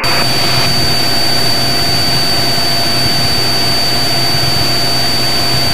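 Cessna 182 Skylane's piston engine and propeller in the climb, heard as a steady cabin drone with a constant thin high whine.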